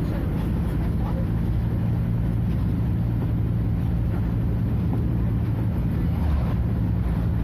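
Scania F250HB bus's DC09 five-cylinder diesel engine running at a steady speed, a constant low drone with no change in pitch.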